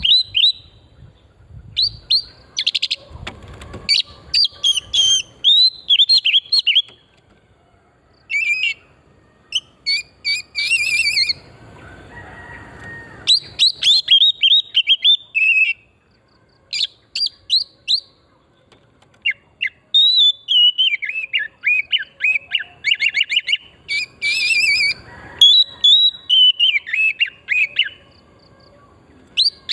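Oriental magpie-robin singing vigorously: a long run of varied, high whistled phrases, slurred notes and rapid chattering trills, broken by short pauses. A few faint low rumbles sit underneath.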